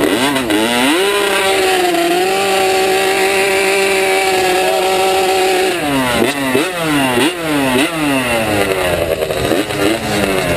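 Two-stroke motorcycle engine revved a few times, then held at a steady high pitch for about five seconds. It then drops and is blipped sharply over and over, rising and falling about twice a second.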